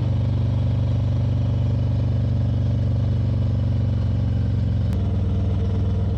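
Motorcycle engine running steadily under way, over wind and road noise. About five seconds in there is a faint click and the engine note changes once.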